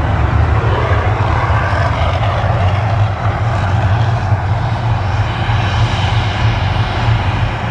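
Erupting man-made volcano show: a loud, steady roar over a deep rumble.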